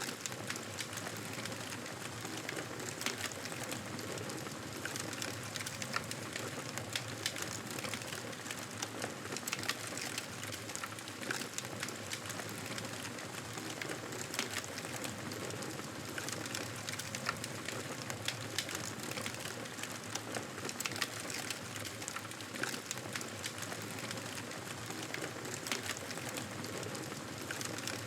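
Campfire burning: a steady hiss with frequent small sharp crackles and pops.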